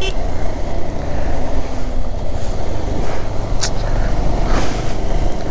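KTM 390 Adventure's single-cylinder engine running under way, with road and wind noise. A short sharp click a little after halfway.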